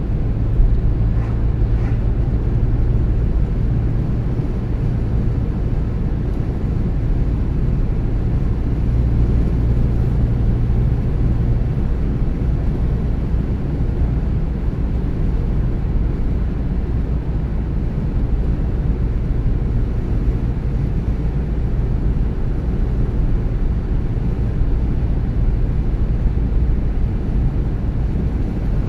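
A car driving at a steady speed: even low road and engine noise, with a low hum that fades out about twelve seconds in.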